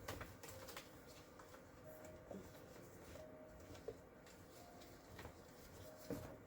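Quiet handling of paper and cardstock scraps: a few faint, scattered taps and light rustles.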